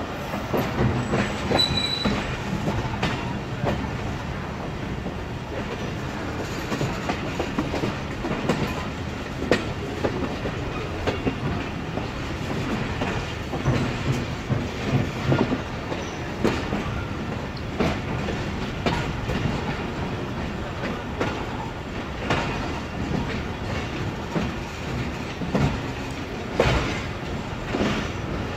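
Passenger train coach running on the track, heard from an open doorway: a steady rumble with irregular clattering knocks as the wheels pass over rail joints and points, and a brief high wheel squeal about two seconds in.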